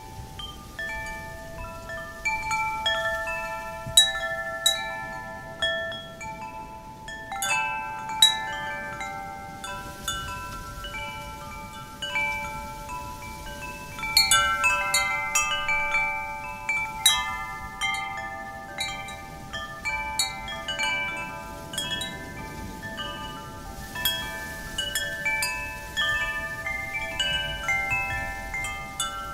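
Wind chimes ringing, their tubes struck irregularly in flurries by the wind, several clear tones overlapping and ringing on. A faint rush of wind lies underneath.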